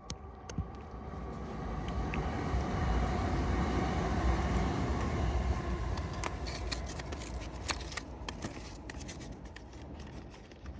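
A passing road vehicle's rumble that swells over a few seconds and fades away, with light clicks and taps in the second half.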